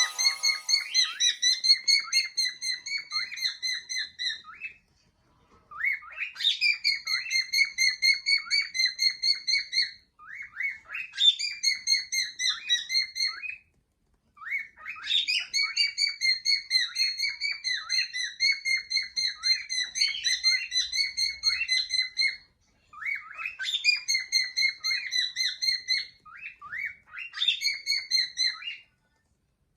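Cockatiel calling in fast runs of short, evenly repeated chirps, about four to five a second, in bursts of several seconds broken by short pauses.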